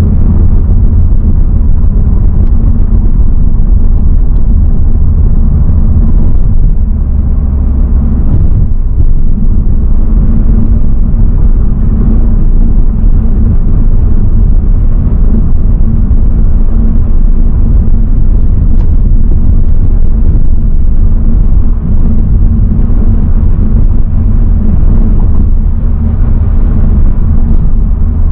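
Honda Civic Type R FL5's 2.0-litre turbocharged inline-four (K20C) with road noise, heard from inside the cabin while driving: a steady low drone whose engine note shifts about eight seconds in.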